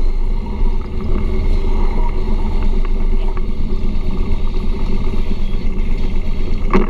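Car engine running as the car moves slowly, heard from inside the cabin as a steady low rumble. A short knock sounds near the end.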